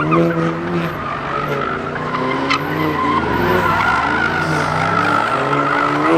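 Car engine revving up and down while the tyres squeal in a continuous skid, the pitch rising and falling throughout.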